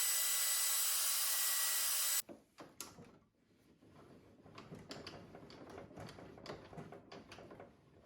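A power tool running with a steady noise and a faint high whine, which cuts off suddenly about two seconds in. Light knocks and clicks of wood and tools being handled follow.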